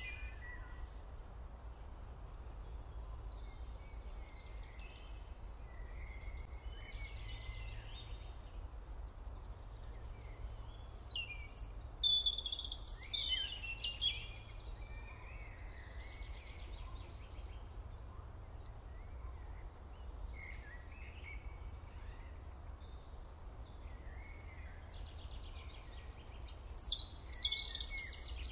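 Birds chirping in scattered bursts over a steady low hum, loudest a little before the middle and again near the end.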